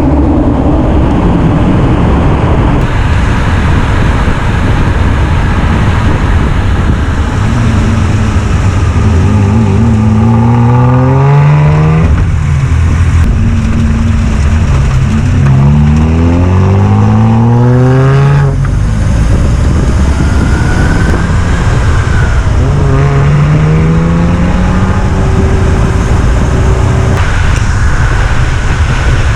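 1995 Ford Probe's KL-DE V6 engine and exhaust under acceleration: the engine note climbs in pitch, drops back at a gear change and climbs again, three pulls in all, over loud steady road noise.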